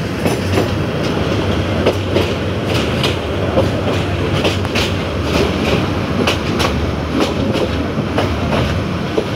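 Metre-gauge passenger train running at speed, heard from an open carriage window: a steady rumble and rush with the wheels clacking irregularly over rail joints.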